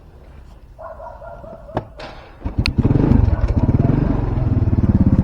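A few sharp clicks, then a motorcycle engine starts about halfway through and runs with a fast, even low beat.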